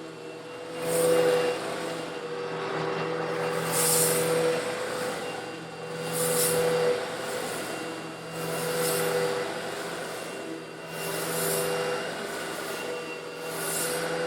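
Old Eureka vacuum cleaner running steadily while sucking up coarse stone granules. A hissing rattle of grit swells about every two to three seconds as it is pushed over the stones.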